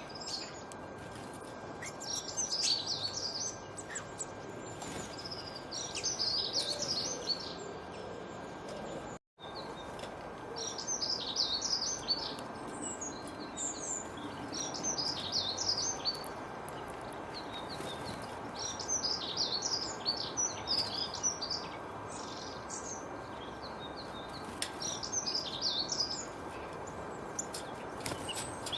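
Songbird singing: a short, high twittering phrase repeated every two to three seconds over a steady background hiss. The sound drops out completely for an instant about nine seconds in.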